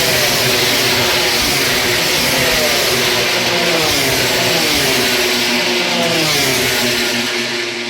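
A pack of MotoGP race motorcycles passing at speed, their engines loud and high-revving. The pitch falls again and again as bike after bike goes by, and the sound dies away near the end.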